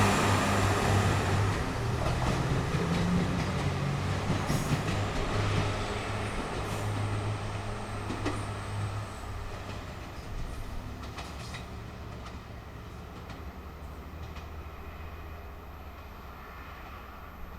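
Diesel limited express railcar pulling away: its engine drone is loud at first and fades steadily as the train recedes, with a few sharp clicks of wheels over rail joints.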